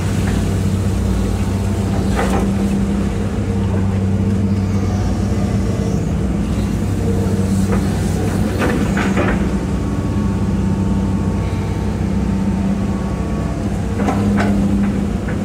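Hitachi EX200-5 excavator's diesel engine running steadily under digging load, with a few brief knocks over its steady hum.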